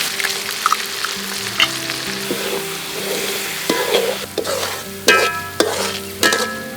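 Egg frying in hot oil in a pan while it is stirred. In the second half a metal spatula clinks and scrapes against the pan several times, each clink ringing briefly.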